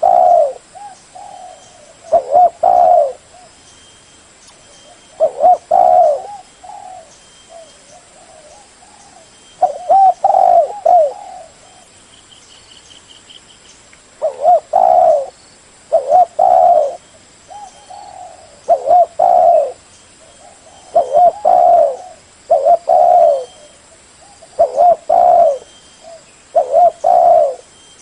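Spotted dove cooing: loud phrases of two or three coos, repeated about every two seconds, with softer single coos between them.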